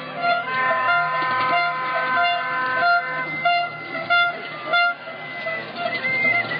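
Noise-demo horns blowing: several tones held at once, with one short toot repeating about twice a second. Two sharp bangs sound a little past the middle.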